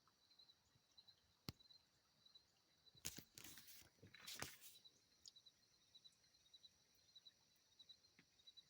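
Near silence with faint, steady insect chirring, broken by two short bursts of noise about three and four seconds in and a single sharp click.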